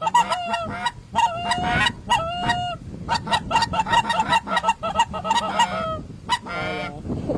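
Geese honking and clucking in quick, overlapping calls, with a brief run of rapid calls near the end.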